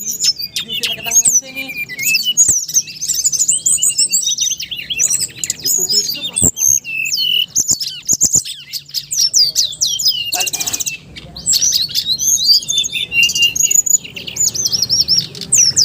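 A songbird singing loudly and almost without pause: a dense run of quick, varied high chirps, whistles and trills.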